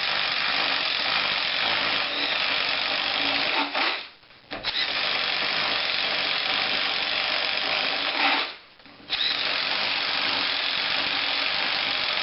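DeWalt DCF885 20V Max 1/4-inch impact driver boring a 1-inch paddle bit into wood. It runs in three long bursts, with brief pauses about four seconds in and about nine seconds in.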